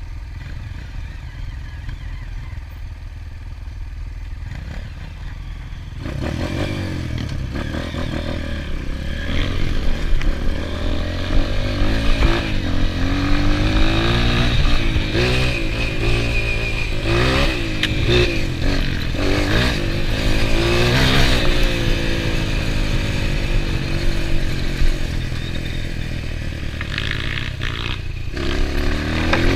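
Enduro motorcycle engines: a low steady rumble at first, then about six seconds in the sound gets louder as engines are revved, their pitch repeatedly rising and falling.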